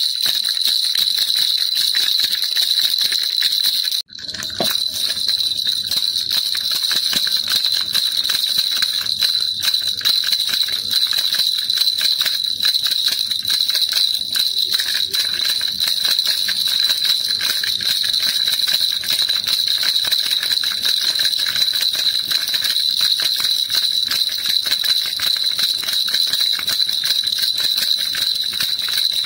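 Baby rattle (kilukiluppai) shaken continuously, a dense steady jingling, with a sudden brief break about four seconds in before it carries on.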